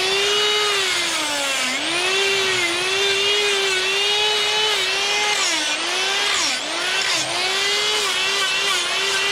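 Die grinder with a sphere burr cutting wood: a steady high motor whine that dips in pitch several times as the burr bites in and recovers.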